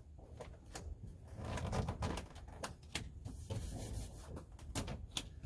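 Sound-deadening mat being pressed and rubbed down by hand onto a truck's sheet-metal floor pan: scattered rustles, rubs and sharp clicks over a low hum.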